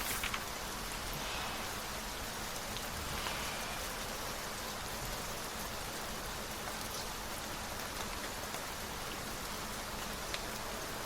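Steady rain falling, an even hiss with a few brief rustles near the start.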